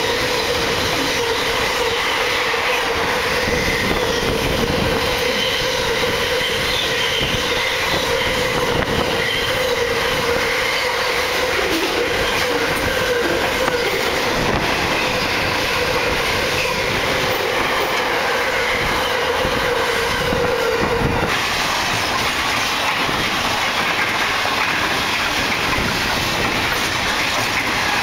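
Container freight train running through the station at speed: a continuous loud noise of wheels on rail, with a steady high ringing tone over it that cuts off abruptly about 21 seconds in.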